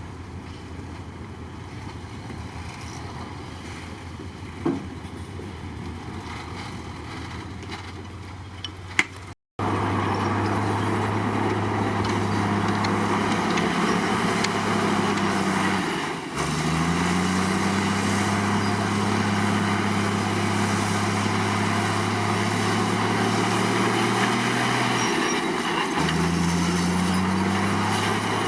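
Komatsu D53 bulldozer's diesel engine running steadily. After a sudden break about nine seconds in it is louder, and its pitch dips and recovers about sixteen seconds in and again shortly before the end.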